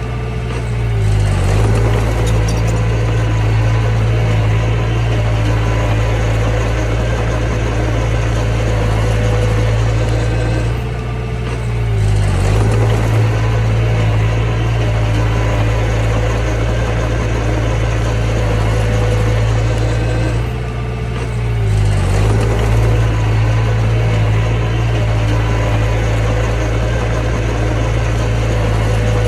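Mini bulldozer's diesel engine running steadily under work. Its pitch and loudness dip briefly three times, about ten seconds apart.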